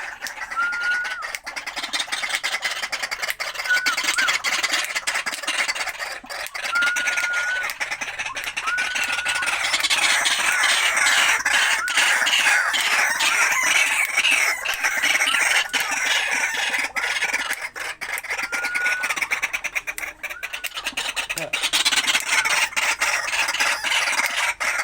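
White-breasted waterhen calling: a long run of rapidly repeated harsh notes, loudest in the middle stretch and again near the end, with a short clear note recurring about every two seconds.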